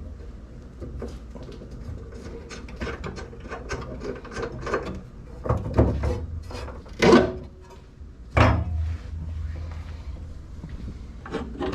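Ratchet wrench clicking in quick strokes while loosening nuts under a car, with two louder knocks a little past the middle.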